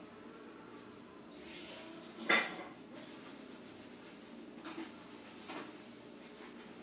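A cat eating dry kibble from a bowl: one sharp clink of the food bowl a little over two seconds in, then a couple of fainter clicks.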